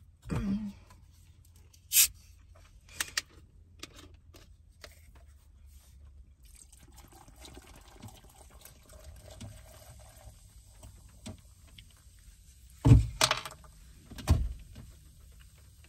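Faint rain falling outside, a soft steady patter with scattered sharp drips and ticks. Two louder knocks land near the end.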